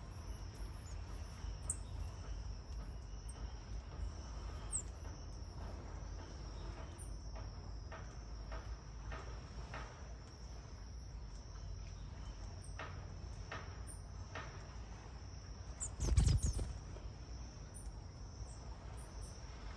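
Insects chirring steadily in the background, with short faint high chirps over it. About 16 seconds in there is one brief, louder thump.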